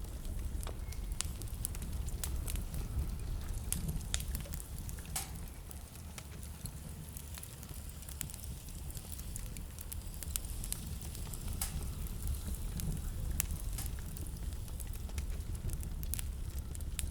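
Wood fire in a fireplace crackling, with sharp irregular pops scattered throughout over a steady low rumble.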